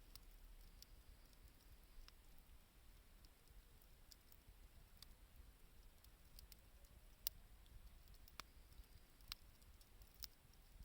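Wood fire crackling faintly: sparse sharp pops and ticks from the burning wood, the loudest about seven seconds in.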